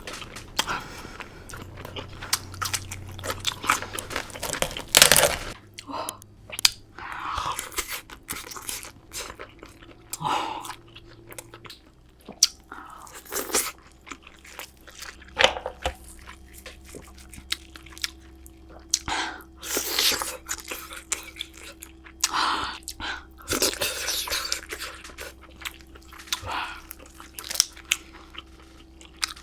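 Close-miked eating of a spicy king crab seafood boil: chewing and biting with frequent irregular crunches and clicks, and a loud crack about five seconds in.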